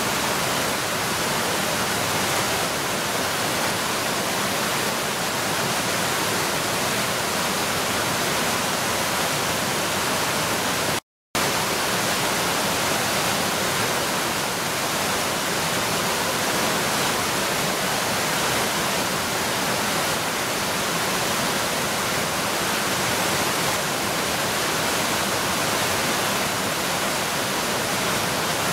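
Mountain stream rushing steadily. The sound cuts out completely for a moment about eleven seconds in, then resumes unchanged.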